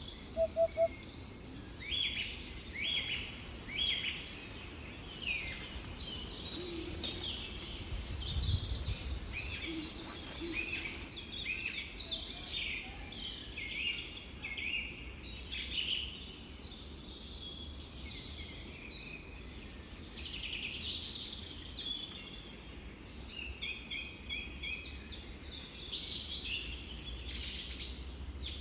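Several small birds chirping and singing in quick, overlapping calls and trills, over a low steady background rumble.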